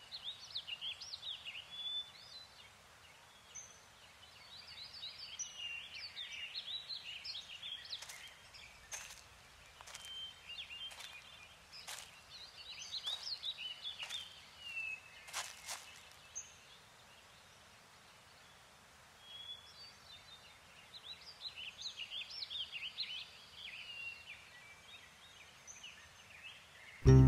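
Small songbirds chirping and twittering in quick bursts with short pauses between, over faint outdoor ambience, with a few faint clicks near the middle.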